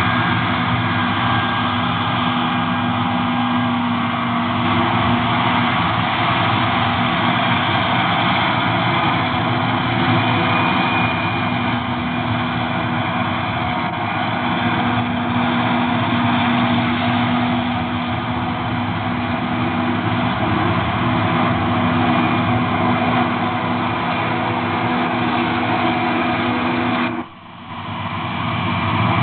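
Large farm diesel engine running steadily at constant speed. The sound drops out sharply for a moment near the end, then returns.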